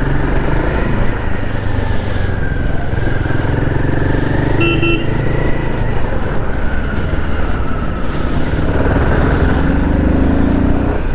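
Motorcycle engine running steadily at riding speed, with road and wind rush on the microphone. A short vehicle horn toot sounds about five seconds in.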